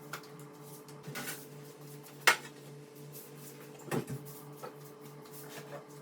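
Kitchen items being handled: a few light knocks and clicks of dishes or utensils, the sharpest about two seconds in and another pair about four seconds in, over a steady low hum.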